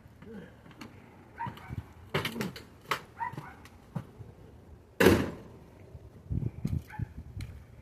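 Knocks and clatter of scrap being handled and loaded, with one loud bang about five seconds in and a few dull thuds after it.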